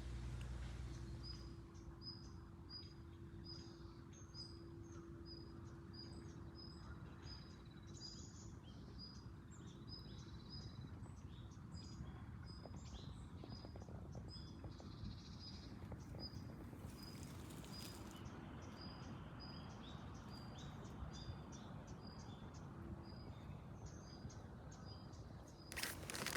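Quiet outdoor ambience with a short, high chirp repeating steadily about twice a second. A faint low steady hum runs through the first half.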